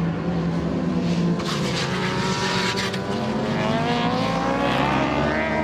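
Racing motorcycle engines running at high revs on track, several bikes at once, with a rush of noise as bikes pass close and an engine note rising in the second half.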